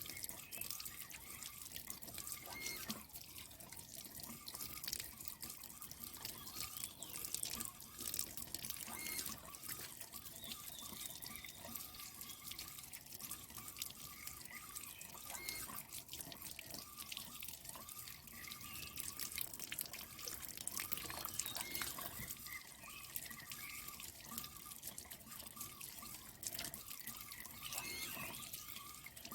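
Water trickling and dripping, with many small drops splashing.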